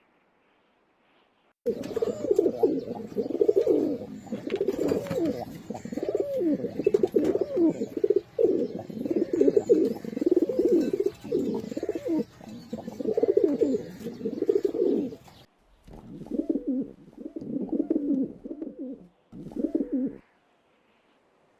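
Pigeons cooing in a dense, continuous run of low coos that starts about two seconds in and breaks off suddenly about fifteen seconds in, followed by three shorter bursts of cooing.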